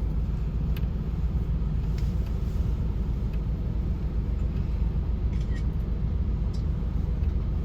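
Steady low rumble of a tour bus running, heard from inside the cabin, with a few faint clicks.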